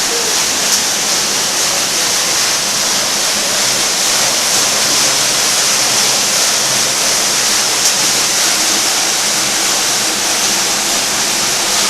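Steady rush of creek water pouring down a cascade in a slot canyon, a loud even roar of falling water.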